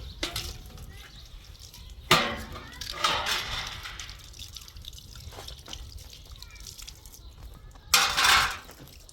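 Water splashing and pouring in three short bursts, the first two about two and three seconds in and the last near the end.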